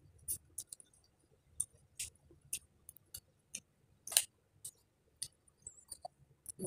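Raw bitter gourd (ampalaya) being chewed and broken apart by hand: scattered sharp crunches and clicks, the loudest about four seconds in.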